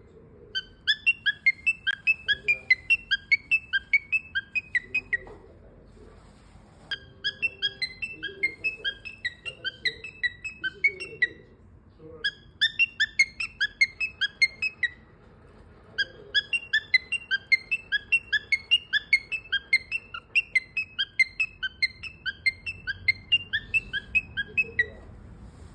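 Pet parrot calling in rapid runs of short, repeated chirps, about four a second, in four bouts with brief pauses between them.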